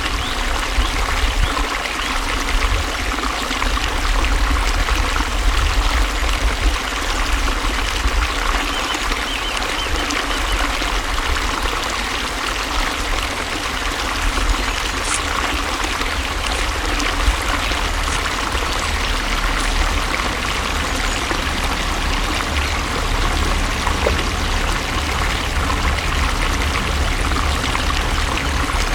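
Flowing water running steadily, a continuous splashing rush with a low rumble underneath.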